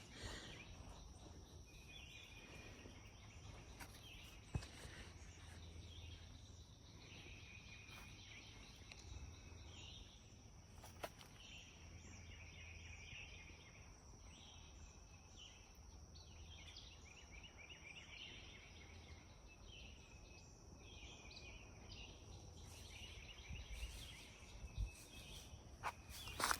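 Quiet pine-forest ambience: a bird faintly trills short phrases every second or two over a steady high insect hum, with a couple of faint clicks.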